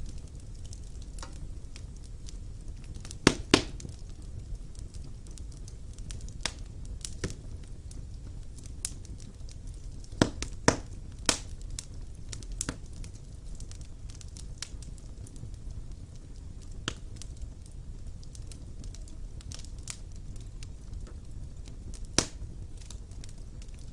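Wood fire burning in a stone fireplace: a steady low rumble of flames with scattered sharp crackles and pops, the loudest pair about three seconds in, a cluster around ten seconds in, and another pop near the end.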